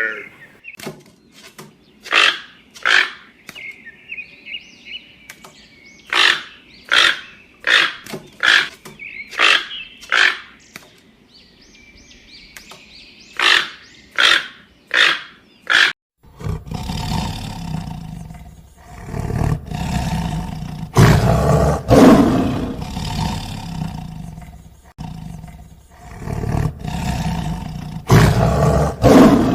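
Two animal recordings in turn: first a series of short, sharp calls, roughly one a second, with faint chirping between them; then, after a sudden cut, loud, low, drawn-out roars.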